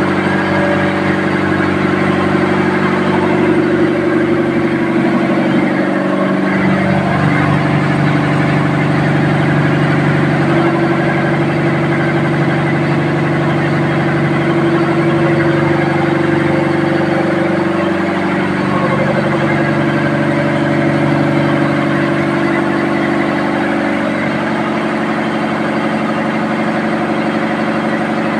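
A ship's engine running steadily and loudly, its pitch shifting slightly about six seconds in and again a little past halfway.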